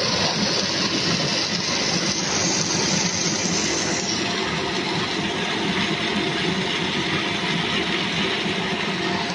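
Puffed snack production line machinery running steadily: a dense, even mechanical noise with faint steady whines through it.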